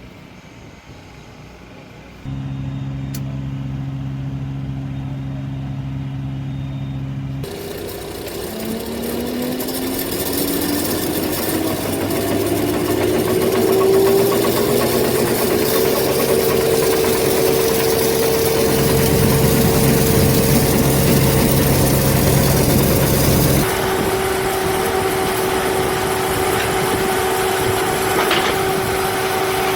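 50 hp Kubota diesel engine of a firewood processor running. It comes in suddenly after a quiet first two seconds, then revs up in a rising whine over several seconds and holds a steady higher speed, with a louder, rougher stretch for a few seconds past the middle.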